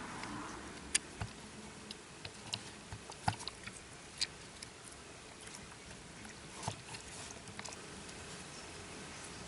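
Small tools and phone parts being handled: scattered light clicks and taps, a few sharper than the rest, over a faint steady hiss.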